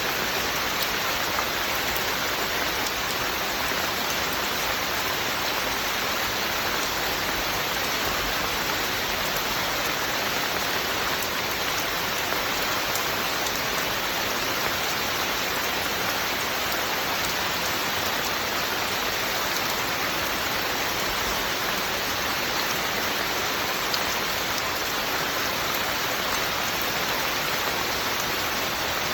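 Steady rain falling, an even hiss of drops on a surface with no change in strength.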